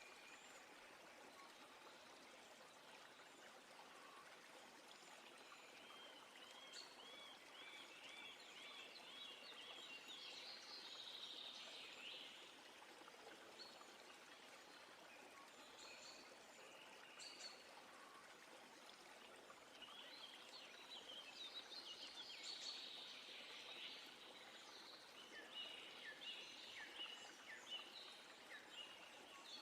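Faint birdsong over a steady hiss of running water: a run of quick repeated notes about a quarter of the way in, and busier chirping in the last third.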